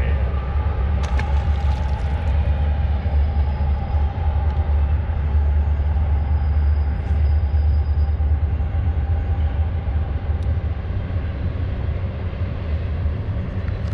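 Freight train crossing a steel railroad bridge: a steady, heavy low rumble that holds evenly throughout, with a faint higher hum over it that fades after about nine seconds.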